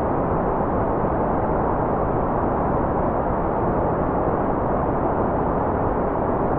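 Continuous white noise: a steady, unchanging hiss that sounds somewhat muffled, with most of its energy in the lower-middle range and little above about 2 kHz.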